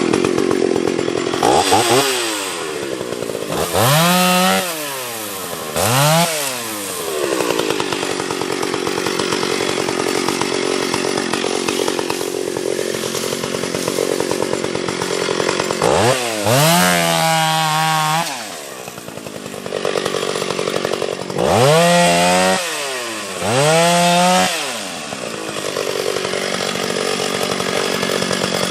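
Two-stroke gas chainsaw bucking a felled pine into sections. The engine revs up and back down about six times, with longer stretches of steady running in between.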